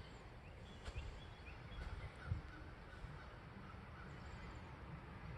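Faint, short bird calls, scattered through the first half, over a low steady background rumble.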